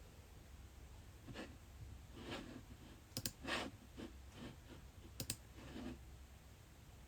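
Faint scattered clicks, two of them quick double clicks, among a few soft, short rustling sounds.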